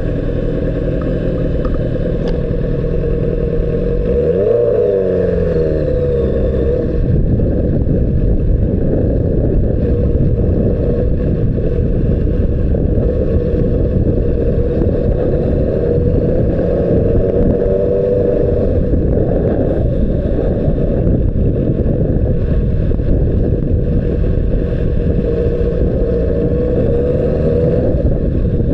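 2006 Honda CBR600RR inline-four riding at speed, its engine note rising and falling a few times under a heavy, muffled rumble of wind on the microphone.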